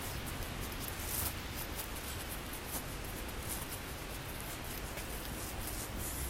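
Steady outdoor city ambience in wet snowfall: a low rumble under an even hiss, with short scratchy rustles now and then.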